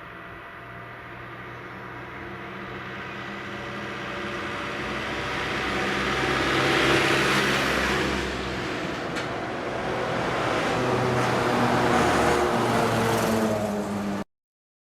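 Fire engines driving past one after another, their diesel engines growing louder as each approaches, with a second swell a few seconds after the first. The sound cuts off abruptly near the end.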